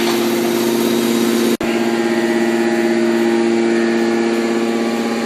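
Enerpat T200XL scrap metal baler's hydraulic power unit running with a steady, even hum, cutting out for an instant about one and a half seconds in.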